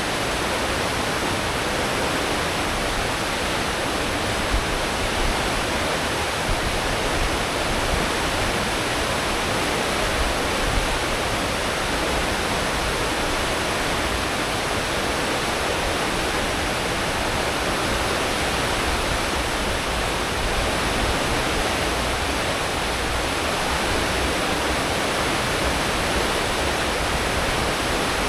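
Steady rushing churn of a cruise ship's wake as the propellers stir the sea at full speed, with a deep engine rumble underneath.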